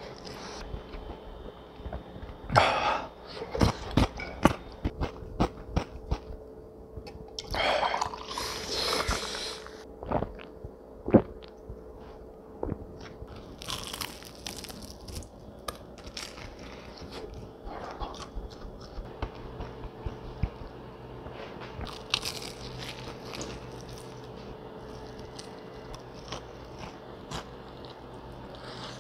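Close-up eating of crispy fried chicken: bites and crunches of the coating with chewing and lip smacks between them, coming in irregular bursts, with the heaviest crunching a few seconds in, around eight seconds in, about halfway through and again near twenty-two seconds.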